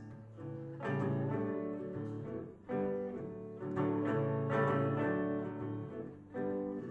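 Instrumental break in a live folk song: acoustic guitar with long held bowed-string notes, the chords changing every second or two.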